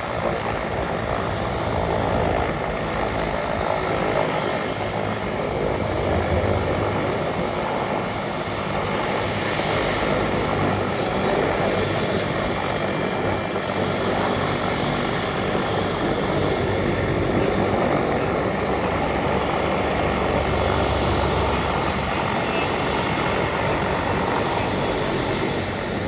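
Bell 407 helicopter arriving, its turbine and rotor running continuously with a thin, high, steady whine over the rotor noise. The low rumble swells and eases a little around a quarter of the way in and again about three-quarters through.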